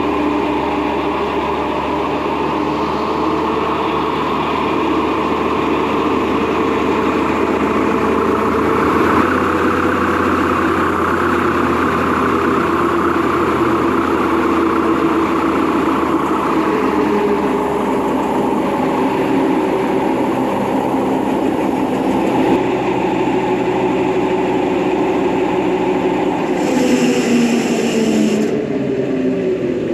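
Skid steer's diesel engine running steadily under hydraulic load, driving a hydraulic motor that spins a sideways-mounted brush hog blade; the pitch drifts up and down. Near the end a hiss joins briefly and the tones dip.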